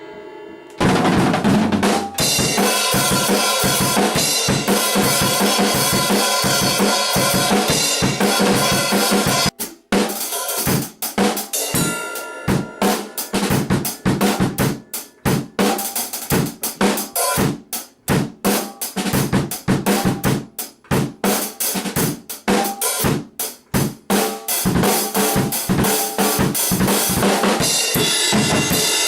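Full drum kit being played hard: kick, snare and cymbals hit in quick succession, starting about a second in, with a brief break near ten seconds.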